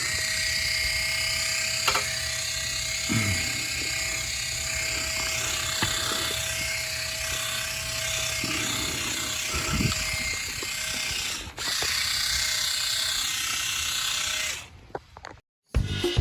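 Small motorised insecticide sprayer running steadily, a motor hum under the hiss of the spray. It cuts out briefly once, starts again, and stops near the end.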